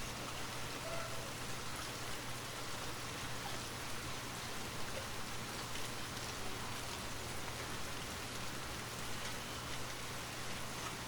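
Steady rain falling and pattering on a surface, an even hiss with scattered drop ticks and a faint low hum beneath.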